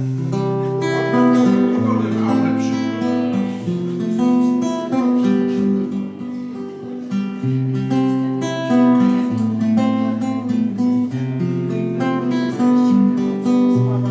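Guitar strumming chords as the instrumental introduction to a song, before the singing comes in.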